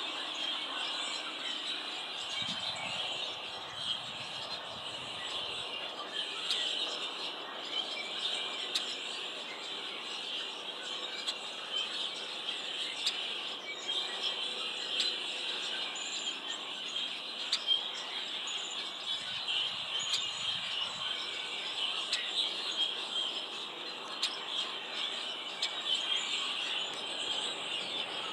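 Many small birds chirping and calling continuously, short calls overlapping into a steady high chatter.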